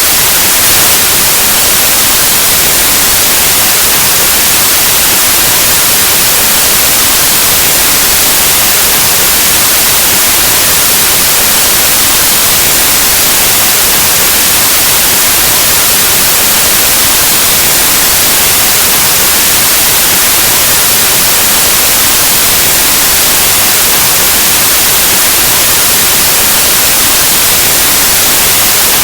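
Loud, steady white noise: an even, unchanging hiss like analog TV or radio static, spread evenly across the whole range of hearing.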